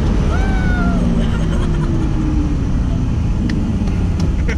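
Turbocharged 2JZ-GTE inline-six of a modified Lexus SC300 running, heard from inside the cabin, its revs easing down slowly. A short whistle-like tone rises and falls under a second in, and a few light clicks come near the end.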